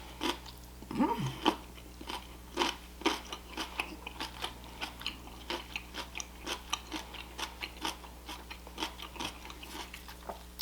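Close-miked chewing of crunchy food, with irregular crisp crunches and wet mouth clicks two or three a second.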